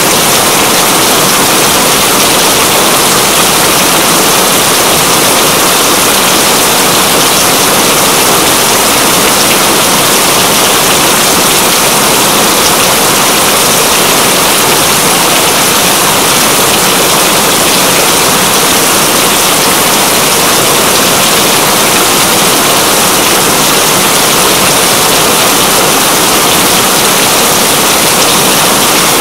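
Steady heavy rain, a dense even hiss with no let-up.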